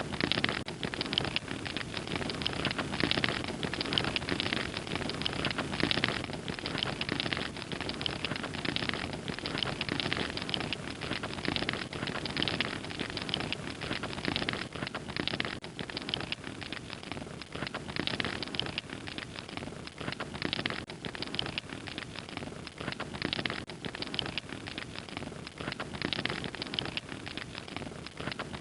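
Wood fire crackling steadily, with a constant hiss and many small sharp pops and snaps.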